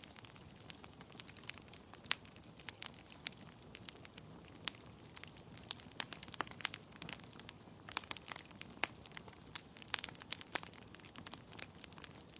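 Wood logs burning in a fireplace: irregular sharp crackles and pops over a soft steady hiss of flames.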